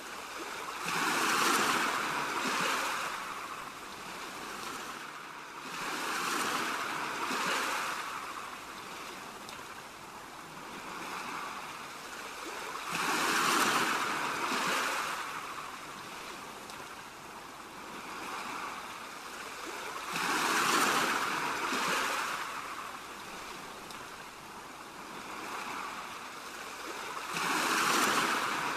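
Ocean waves washing in and drawing back in a slow, steady cycle, a louder swell of surf about every seven seconds with smaller ones between.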